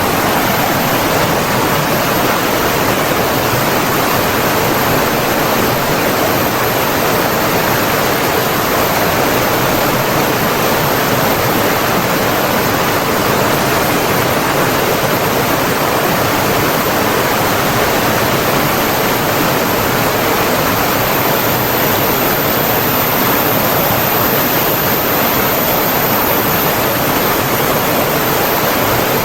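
Flowing water from a stream or waterfall, rushing in a steady, even wash with no breaks.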